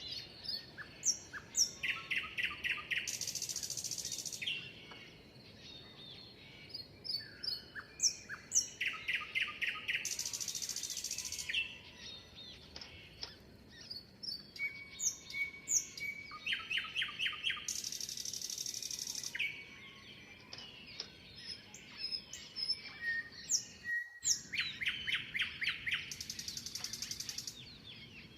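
Songbird singing the same phrase four times, about every seven to eight seconds: a few high down-slurred whistles, a quick run of notes, then a high buzzy trill lasting over a second. Other birds chirp between the phrases.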